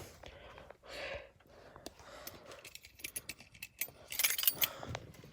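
A bunch of keys jingling, with scattered small clicks and ticks, as the truck key is handled at the ignition; the clicks bunch up and grow louder near the end.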